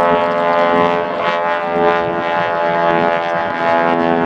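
Beech 18's twin radial piston engines droning steadily as the plane flies overhead, a dense, even hum of propeller engine tones.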